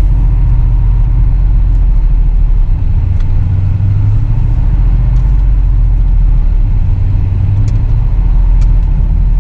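Truck engine and drivetrain rumbling steadily while driving on an off-road trail, with a low drone that swells a little now and then. Heard from inside the cab.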